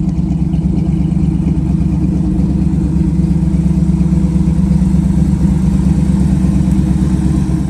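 Car engine running steadily at idle, loud and deep, with no revving.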